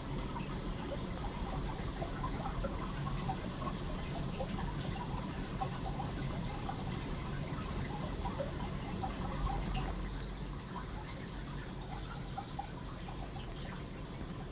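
Aquarium water trickling, with many small plinks over a steady low hum; it gets slightly quieter about ten seconds in.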